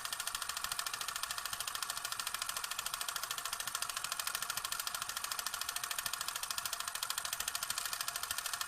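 A rapid, even mechanical clicking or rattling, many clicks a second at a steady rate.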